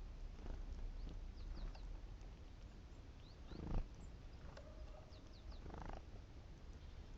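Great tits giving many short, high chirps, with a few soft low whooshes in between, the loudest about halfway through.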